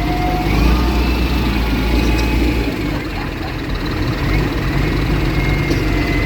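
Tractor engines running with a deep, steady rumble.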